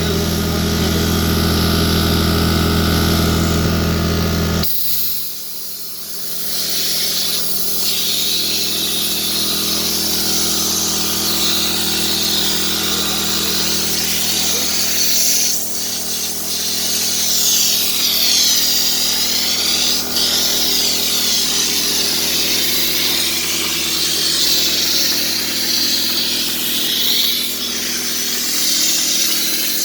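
A motor runs with a low steady hum and cuts off about four and a half seconds in. It is followed by a steady high hissing with repeated rising-and-falling swishes.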